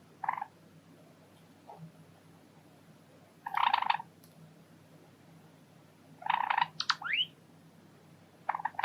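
Java sparrows calling: a short chirp near the start, a harsher half-second call a few seconds in, another call followed by quick rising whistles past the middle, and a few rapid clicks near the end.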